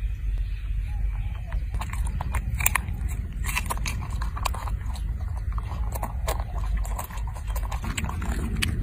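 An animal chewing and crunching food: irregular crisp bites and crackles over a steady low rumble.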